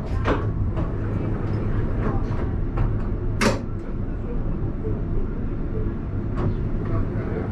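Alstom Citadis tram heard from the driver's cab: a steady low hum with a few sharp clicks and knocks, the loudest about three and a half seconds in.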